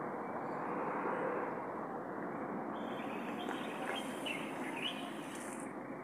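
A few short, high bird chirps in the middle stretch, over a steady rushing background noise.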